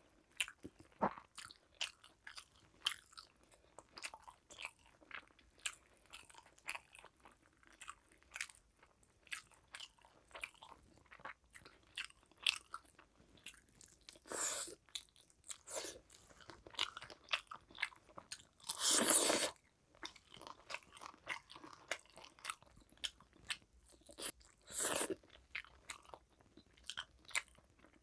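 Mouth sounds of someone eating rice and fried fish by hand: steady chewing with many small wet clicks and crunches. A few longer, louder noisy sounds break through, the loudest about two-thirds of the way in.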